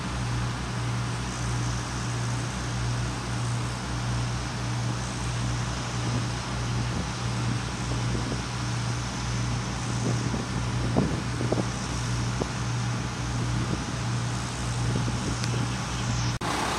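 Engine running steadily at a constant speed with an even, pulsing low hum, wind buffeting the microphone, and a few light knocks about eleven seconds in.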